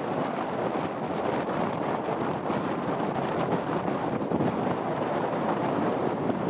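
Strong wind blowing across the microphone: a steady rushing noise that swells and eases slightly.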